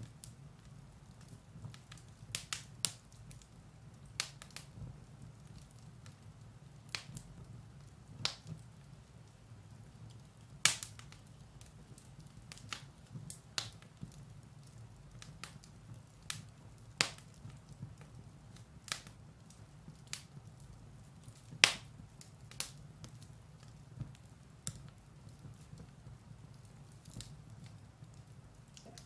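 Firewood burning in a fireplace: irregular sharp crackles and pops, a few of them louder, over a low steady rumble of the fire.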